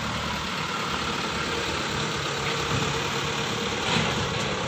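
Radio-controlled construction machine running with a steady engine-like hum and noise, no clear rise or fall.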